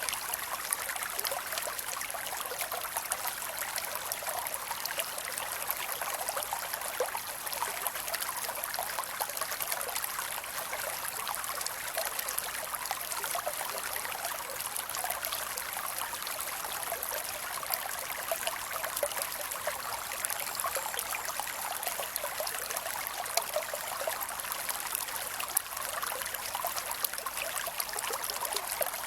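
A creek flowing and trickling steadily, water babbling over stones with a continuous even rush.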